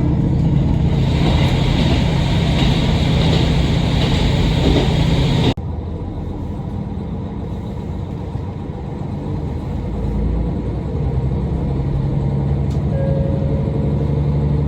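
Diesel railcar under way: a loud, steady rumble of engine and running gear that cuts off abruptly a little over five seconds in, giving way to a quieter steady running sound whose engine hum grows louder around ten seconds in.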